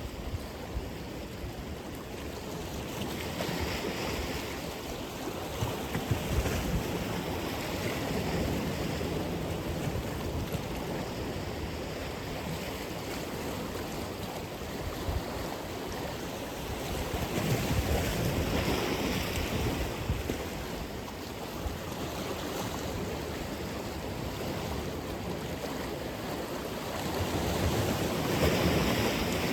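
Ocean waves breaking and washing on the shore in a steady roar, swelling louder every several seconds as waves come in, with some wind on the microphone.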